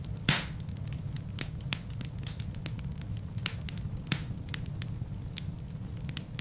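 Wood fire burning in a fireplace: a steady low rumble of flames with frequent sharp crackles and pops, one loud pop just after the start and another a little after four seconds in.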